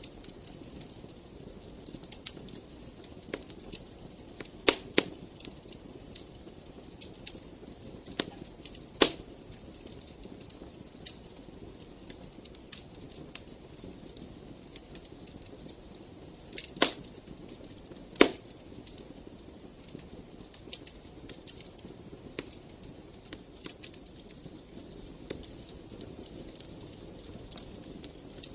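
Wood fire crackling in a fireplace: a steady low rush of flame under frequent small crackles, with a handful of louder, sharper pops scattered through.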